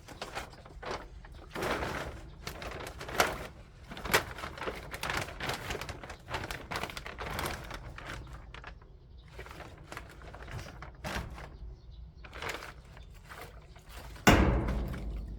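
Garden tool working soil at the edge of a bed: irregular scrapes and knocks, with one loud thump near the end.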